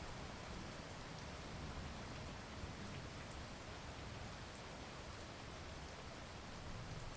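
Heavy rain falling steadily, an even hiss of drops with a low rumble underneath and no distinct thunderclap.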